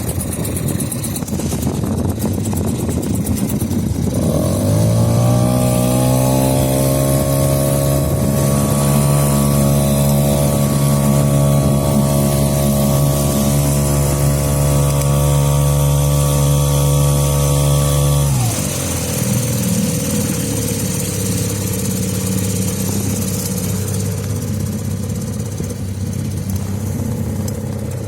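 Mercury 2.5 hp outboard motor running: it speeds up about four seconds in, holds a steady higher-pitched drone under throttle, then drops back to a low, uneven idle near two-thirds of the way through.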